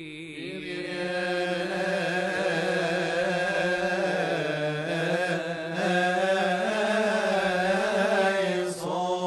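Coptic Orthodox liturgical chant: a man's voice sings a long melismatic phrase, drawn out on a single syllable in wavering, held notes.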